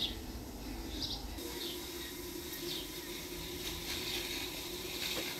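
Small birds chirping outdoors: short high calls about once a second, over a steady low background hum.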